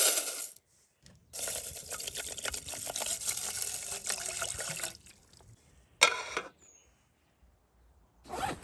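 Water pouring or trickling for about three and a half seconds, followed about six seconds in by a brief, separate noisy burst.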